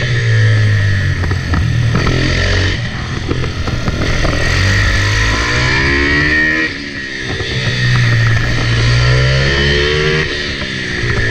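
Kayo 160cc pitbike's single-cylinder four-stroke engine heard onboard, revving up and down under hard acceleration and closing off of the throttle, its pitch climbing through the gears and then dropping sharply about two-thirds of the way through and again near the end.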